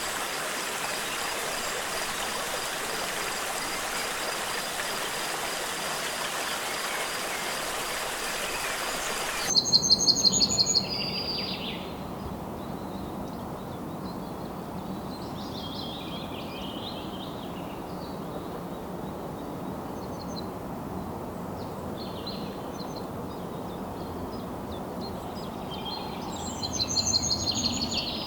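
Rushing water hiss with a steady high whine over it, cutting off suddenly about a third of the way in to a quieter forest backdrop where birds call: a loud trilled call twice, just after the cut and near the end, with softer warbling calls between.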